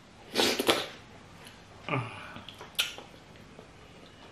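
A person eating fufu with peanut soup with her mouth open, with loud wet lip-smacks and chewing: one burst of smacking about half a second in, another about two seconds in and a sharp smack near three seconds. The smacking is deliberately messy.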